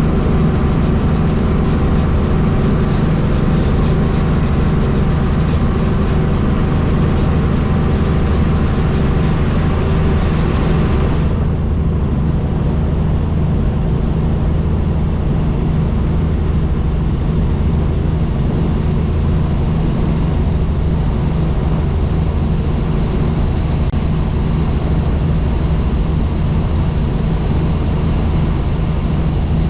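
Helicopter in flight: a steady low throb of rotor and engine under a hiss. About eleven seconds in, the higher hiss drops away abruptly, leaving mostly the low drone.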